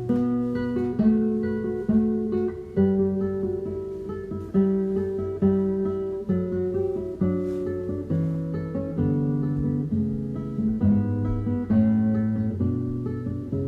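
Background music: acoustic guitar, plucked and strummed, playing a steady succession of notes and chords.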